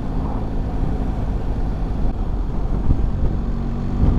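BMW R1300GS boxer-twin engine running at a steady cruise while riding, heard over a low rush of wind noise.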